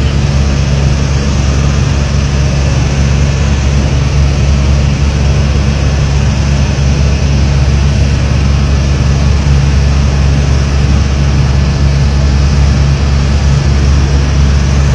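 Fighter jet engine roar during a flypast: a loud, steady, deep rumble that holds without a break.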